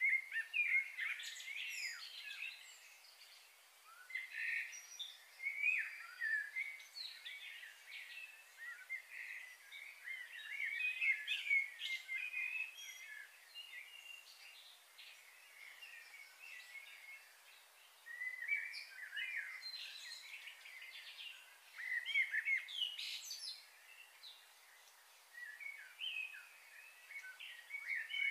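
Small birds chirping and calling in irregular bouts of many short, quick notes, with brief lulls between bouts.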